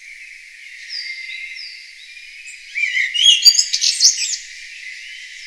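Songbirds calling: a couple of soft falling whistles, then a loud burst of quick, varied chirps and trills about three to four seconds in.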